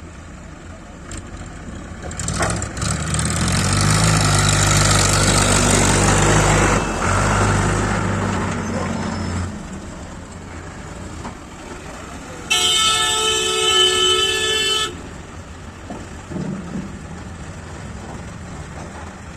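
A truck's engine running loud, swelling and then fading away, followed a little after the middle by a single horn blast about two seconds long.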